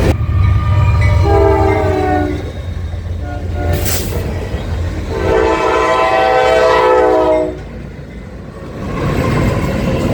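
Locomotive air horn sounding a long blast, a short one, then a longer drawn-out blast, over the steady low rumble of a passing train.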